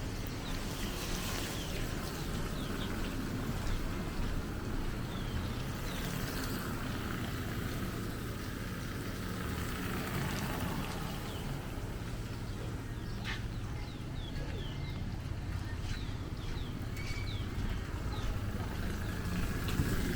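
Outdoor street ambience: a steady low rumble, with small birds chirping in short, quick calls again and again.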